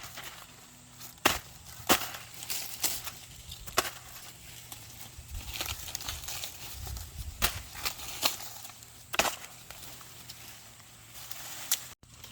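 Irregular sharp snaps and knocks, about a dozen spread unevenly, the loudest a little over a second in and again near the end.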